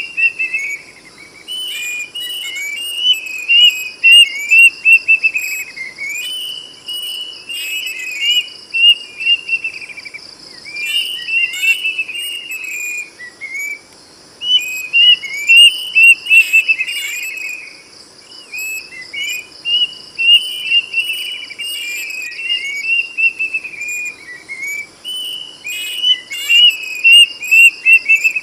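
Plaintive cuckoo (kedasih) singing: repeated phrases of quick, loud whistled notes, each phrase a couple of seconds long with short pauses between. A steady insect trill runs underneath.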